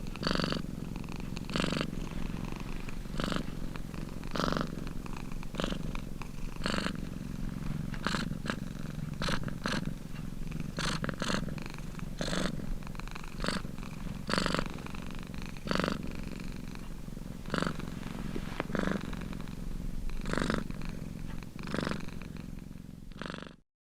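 Domestic cat purring close up: a steady low purr swelling to a louder pulse about every second or so. It cuts off suddenly near the end.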